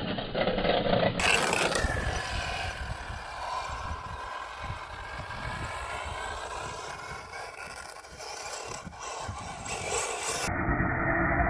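A 1/10-scale electric RC trophy truck driving over dirt: a thin motor whine with scraping and clattering of the tyres and chassis. The sound changes abruptly about a second in and again near the end.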